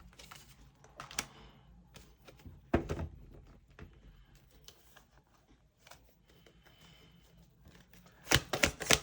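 Tarot cards being handled: scattered soft clicks and taps, one louder thump about three seconds in, and a quick flurry of card shuffling near the end.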